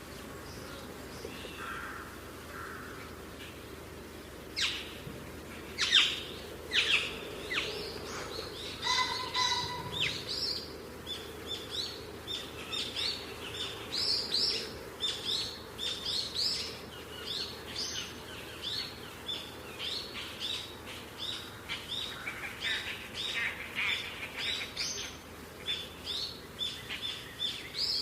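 Lory chirping: a few louder, sharp calls about five to eight seconds in, then a long run of short chirps repeated about once or twice a second.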